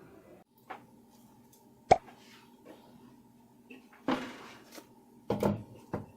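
Household objects being handled: a sharp click about two seconds in, then a scraping clatter and a few knocks, over a steady low hum.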